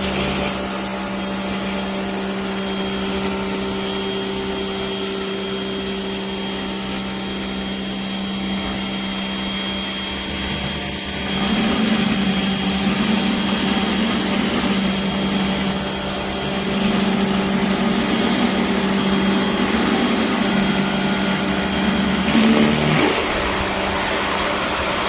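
Pressure washer running steadily with water spraying, a constant motor hum over a hiss. About eleven seconds in it grows louder and rougher, and stays so until near the end.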